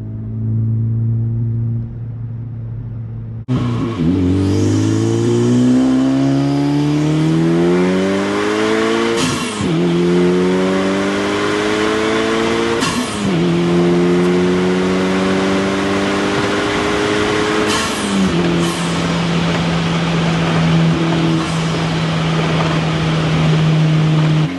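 Modified Honda Civic Type R FL5's turbocharged 2.0-litre four-cylinder and aftermarket exhaust, running at a steady pitch at first. About three seconds in the car pulls hard under full acceleration, the engine note climbing steeply. Three upshifts follow, each a sudden drop in pitch with a short burst of noise, and the engine then settles to a steady cruise.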